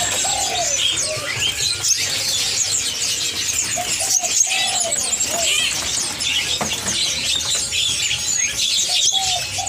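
A dense chorus of many small caged songbirds chirping and squeaking over one another, with a few louder, lower calls now and then.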